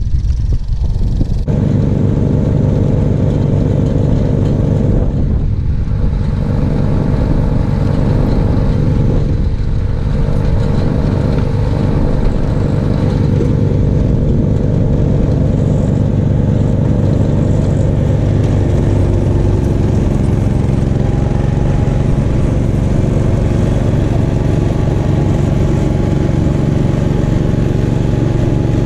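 Gravely 430 tractor engine running steadily with the snowblower, with two brief dips in its sound about five and ten seconds in.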